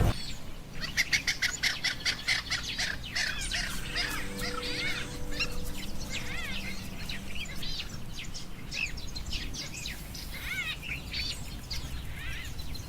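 Birds chirping: many short, high, overlapping calls, densest in the first few seconds, over a low steady background noise.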